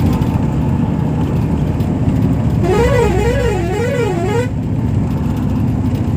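Steady road-traffic rumble, with a warbling horn-like tone in the middle that swings up and down in pitch about three times over roughly two seconds.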